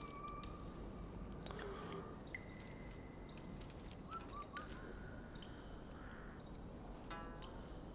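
Faint birdsong: several birds chirping, with short rising-and-falling chirps and a few held whistled notes, and a brief harsher call near the end.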